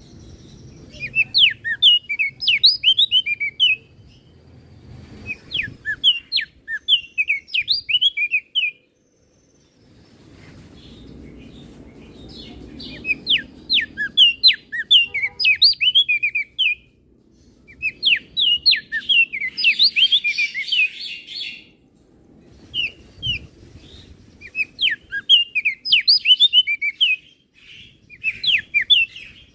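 Crested darkeye (opior jambul) singing in quick, high chirping phrases of about two to three seconds each, with short pauses between them.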